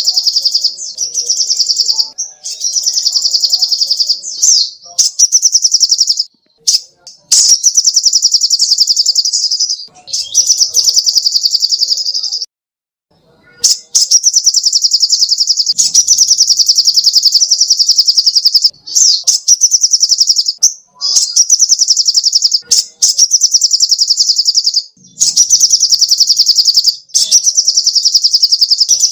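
Sogok ontong (little spiderhunter) singing: very fast, high trills of chips, each bout lasting one to three seconds, repeated with short breaks and one longer pause about halfway.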